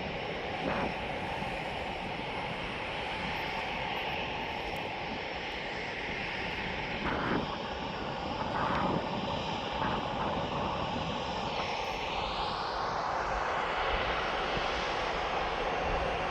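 Jet airliner engines running, a steady rushing noise, with a whine that rises steeply in pitch over the last few seconds. A few short knocks sound over it.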